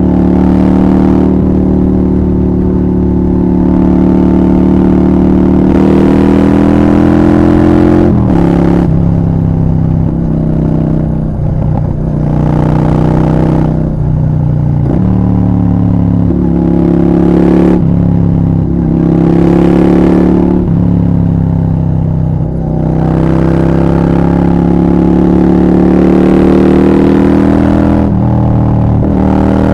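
Honda Shadow 750 V-twin through a Black Widow exhaust under hard riding, the engine pitch climbing again and again and dropping sharply at each gear change, about eight shifts in all.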